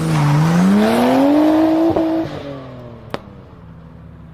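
A tuned car engine accelerating hard, its pitch climbing steadily for about two seconds, then lifting off and falling away as it fades into the distance, with a single sharp crack near the end.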